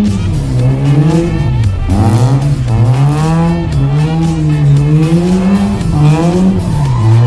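Mazda RX-7 FC's rotary engine revving up and down over and over under throttle while drifting, with tyres squealing.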